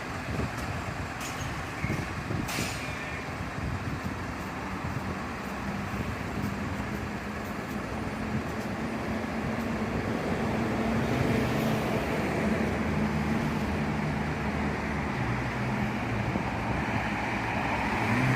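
Large truck engine running steadily, its hum growing louder over the second half.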